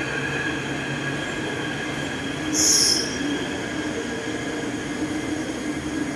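Taipei Metro train pulling into the platform, with a steady whine and squeal from its wheels and motors. A short burst of air hiss comes about two and a half seconds in.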